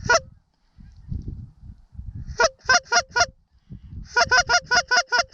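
Canada goose honks and clucks: one honk at the start, a group of four a couple of seconds in, then a quick run of about ten evenly spaced clucks near the end, over a low wind rumble.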